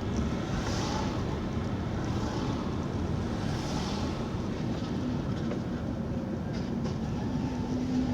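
Car driving along, heard from inside the cabin: a steady low road and engine rumble, with a faint engine tone that grows a little clearer near the end.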